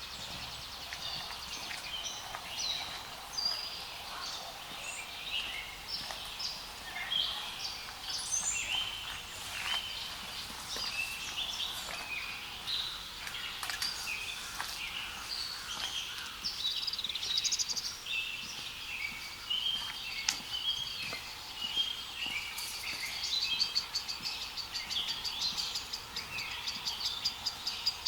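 Several wild birds singing, a busy mix of short chirps and whistles. From about halfway a steady, rapid pulsing trill joins in and grows louder toward the end.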